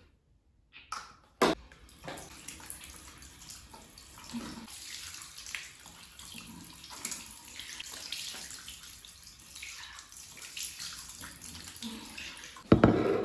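Water running steadily from a tap or shower, splashing. There is a sharp click about a second and a half in, and a sudden burst of louder knocks just before the end.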